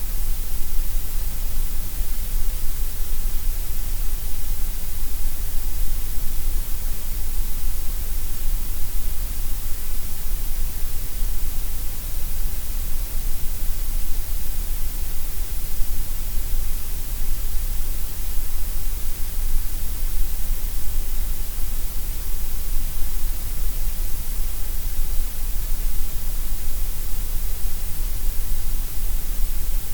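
Gray noise: a steady, unchanging hiss spread across all pitches, with no events.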